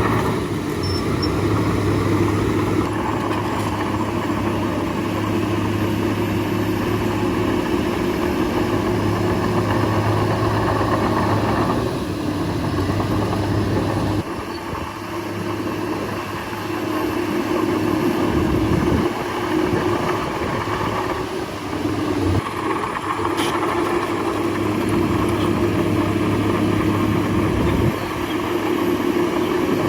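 Bulldozer's diesel engine running steadily while working, easing off and changing pitch partway through, then coming back up to full pull.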